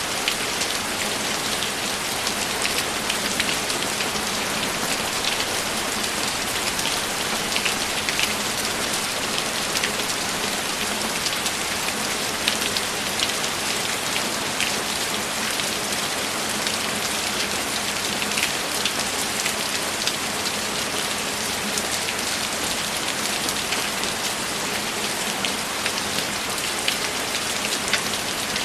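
Steady, heavy rainfall: a constant hiss of rain with scattered sharper ticks of individual drops hitting a surface.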